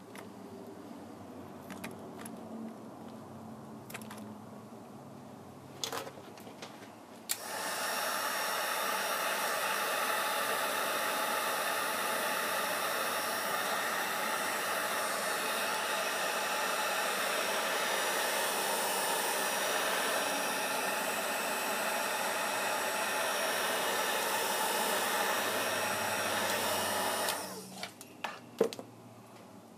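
Hot-air blower switched on about seven seconds in, running steadily for about twenty seconds, then switched off. A few light clicks and taps come before and after it.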